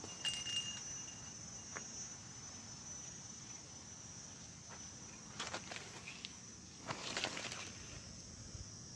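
Steady high-pitched chorus of insects, like crickets, with a faint thin whistle-like tone in the first second and a few short rustles of movement about five and a half and seven seconds in.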